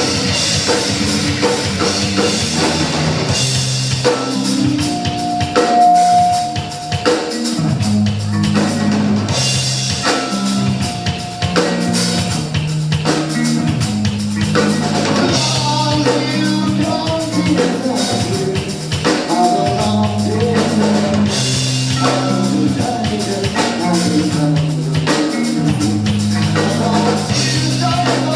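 A rock band playing live, drum kit and bass driving a repeating riff under guitar.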